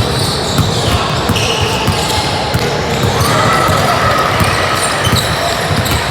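Basketball game in a gym: a basketball bouncing on the court, with many short knocks over a steady din of voices.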